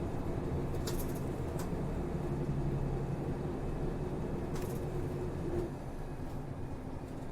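Route bus running, heard from inside the passenger cabin: a steady diesel engine and drivetrain sound with a few short rattles. About five and a half seconds in, the engine note drops and the sound gets quieter.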